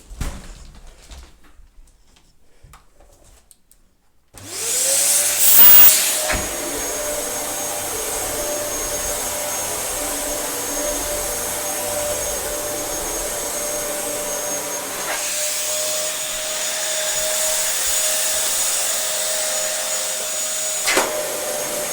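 Dyson DC07 bagless upright vacuum cleaner switched on about four seconds in: the motor spins up with a rising whine and then runs steadily, with its brush bar switched off. A few handling clicks come before it starts, and a click sounds once or twice while it runs.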